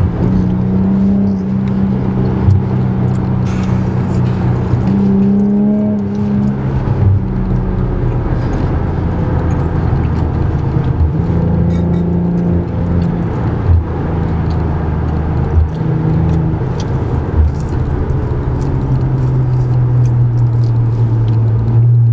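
Infiniti Q50 3.0t's twin-turbo V6 running through a new Stillen cat-back exhaust. The steady low exhaust note steps up and down in pitch several times, with a few short knocks.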